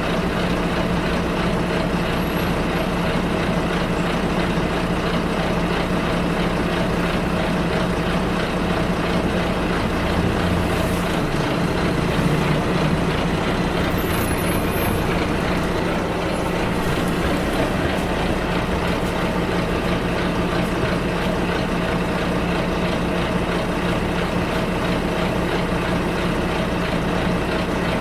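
Steady engine hum and road noise of a bus heard from inside the passenger cabin, its low engine note changing about ten to twelve seconds in. A brief high squeak comes about halfway through.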